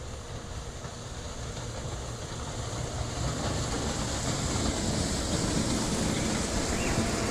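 Icebreaker ship sound effect: a steady, noisy rumble with hiss that grows gradually louder.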